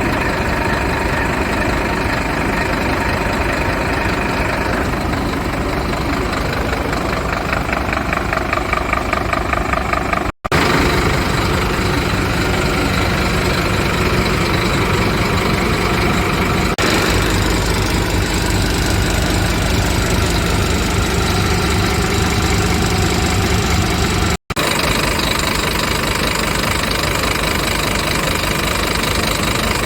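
Scania P230 truck's nine-litre five-cylinder diesel engine running steadily at idle, with a diesel knock. The sound drops out twice for a moment, and from just past the middle it has a heavier low rumble.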